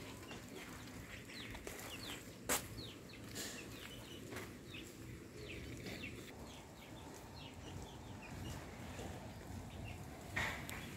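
Birds chirping in short, repeated falling notes, with a sharp click about two and a half seconds in and a brief louder sound near the end.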